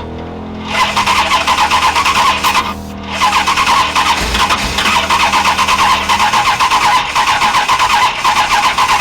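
Mopar 440 big-block V8 cranking over on its starter, with a fast even chug. There is a short break about three seconds in, then it cranks again.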